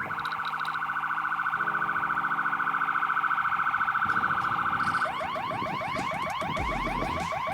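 Fire engine's electronic siren sounding on an emergency run. It plays a rapid warble for about five seconds, then switches to fast, repeated rising yelps. Near the end a deep low tone joins in, in keeping with the low-frequency Rumbler siren.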